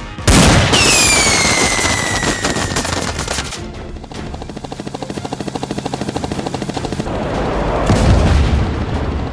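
Film sound-effect gunfire over background music: a sudden loud blast with a falling whine, then a rapid run of automatic-fire shots, and a heavy boom about eight seconds in.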